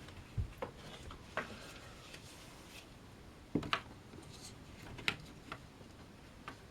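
Light knocks and clicks of model railway bridge pieces being handled and set in place on the layout, a few short taps spaced irregularly, the sharpest between three and four seconds in and just after five seconds.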